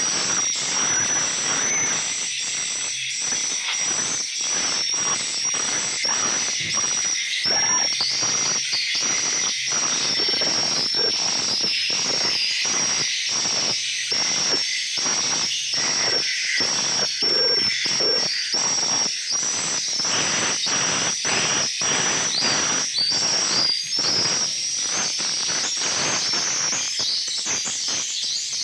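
A dense chorus of edible-nest swiftlets twittering inside a swiftlet house: rapid, high-pitched chirps overlapping without a break. It is used as a lure call to draw swiftlets into a nesting house.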